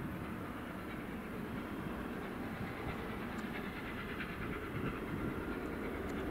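A train running on the line: a steady rumble that grows slightly louder.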